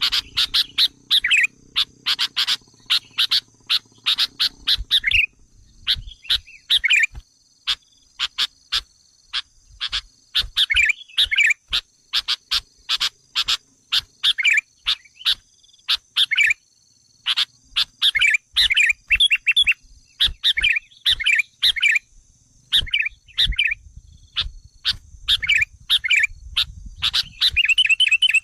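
Sooty-headed bulbul (kutilang) calls played as a lure: rapid, agitated strings of short chattering and chirping notes, repeated without pause. A faint steady high whine runs behind the calls.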